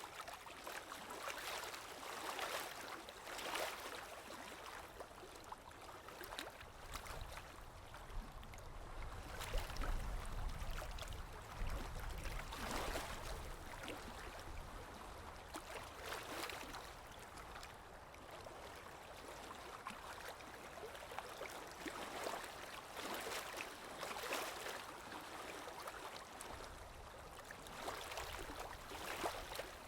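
Sea waves lapping and washing against the shore in a steady wash of water noise, with small swells every second or two and a deeper rumble midway.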